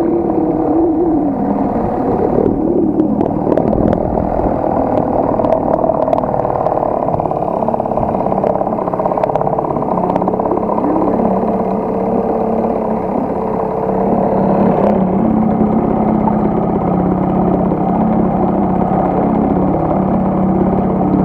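HDX T 2.6 two-stroke outboard motor running steadily on its first run-in after the first start, with a few light clicks in the first half.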